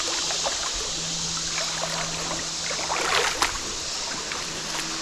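Creek water rushing steadily over rocks after a flood, with a short sharp noise about three and a half seconds in.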